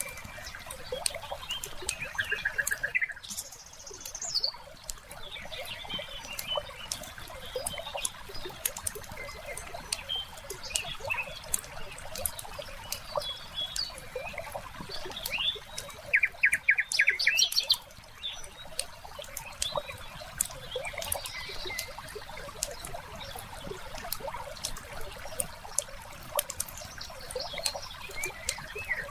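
Layered fireplace-and-lakeside ambience: a wood fire crackling with frequent small pops over trickling water, while birds chirp throughout. A rapid bird trill about halfway through is the loudest sound, with shorter trills near the start.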